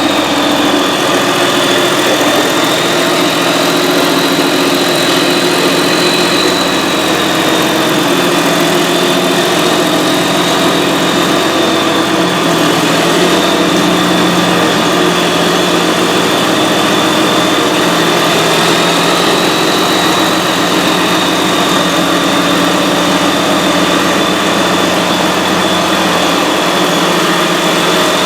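Freshly rebuilt John Deere 6068 six-cylinder diesel running steadily on a straight pipe, with a high whine over the engine noise.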